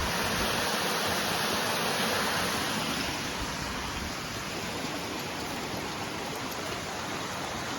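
Rushing water of a rain-swollen creek and its small cascades, a steady hiss that eases slightly after about three seconds.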